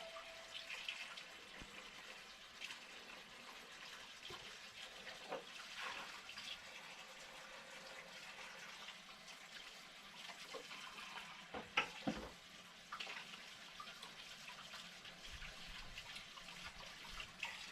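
Faint water sounds with scattered small clicks and knocks, a sharper knock about twelve seconds in.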